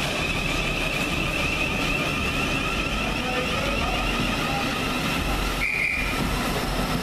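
Thameslink Class 700 electric multiple unit running slowly through the station, with a steady high whine over the rumble of its wheels on the track.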